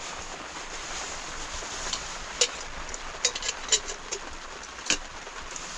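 Steady hiss of a rainstorm, with a few sharp clicks or knocks scattered through the middle and later part.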